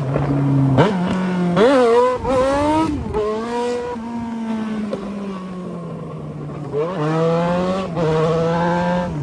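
Yamaha XJ6 inline-four motorcycle engine through a 3-inch aftermarket exhaust, accelerating hard: the revs climb twice about two seconds in with a gear change between, hold near steady in the middle, then climb again about seven seconds in before settling.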